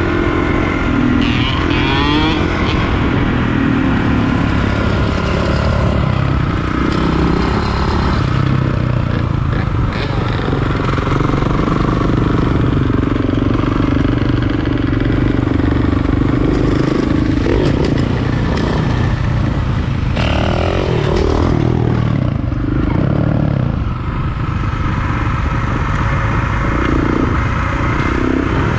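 Motorcycle engines running and revving, loud and continuous, with the revs rising and falling as the throttle is worked.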